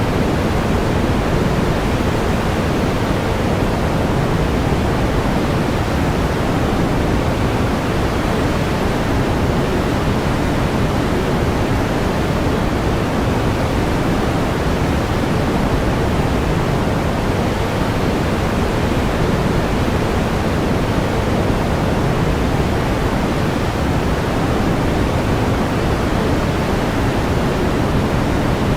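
Steady pink noise: an even, unchanging hiss weighted toward the low end, like a distant waterfall, with no variation or events.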